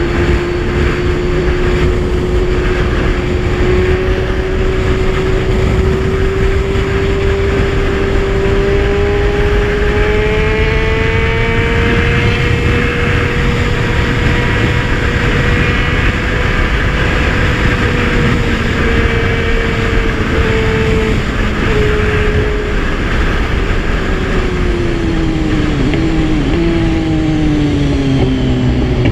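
Kawasaki Z1000 inline-four engine running at a cruise, its note climbing slowly as the bike speeds up, holding, then falling away in the last third as it slows. A steady rush of wind and road noise lies under it.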